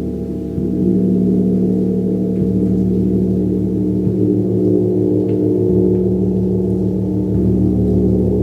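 Gong played with soft, regular mallet strokes about every one and a half seconds, its low tones overlapping into a dense, sustained wash that swells slightly about a second in.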